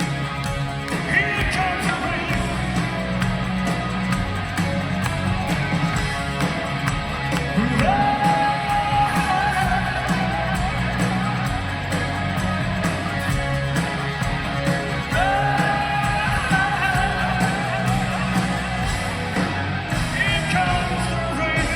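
Rock band playing live, with singing over a dense, steady band sound. Two long held notes slide up into pitch, about 8 and 15 seconds in.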